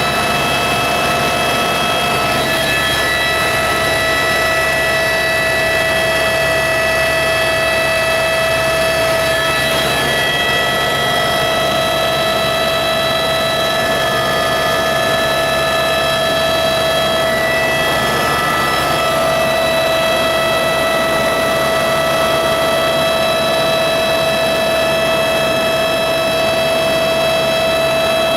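Helicopter in flight: a loud, steady whine with several high tones over a constant rushing noise. The pitch shifts slightly a few times.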